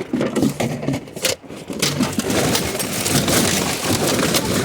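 Plastic trash bags and scrap rustling and crackling as they are rummaged through by hand, an irregular, continuous clatter of small rustles and clicks.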